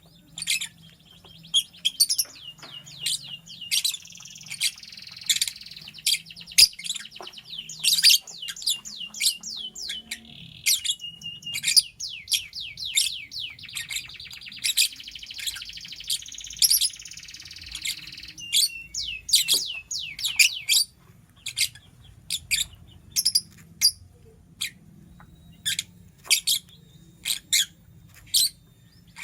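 Lovebird chirping: a quick run of short, sharp, high chirps all through, broken by two longer stretches of fast chattering warble in the first two-thirds.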